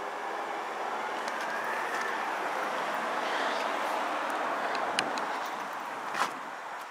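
A road vehicle driving past on the road at a level crossing, its tyre and engine noise swelling and then fading. Two short sharp clicks near the end.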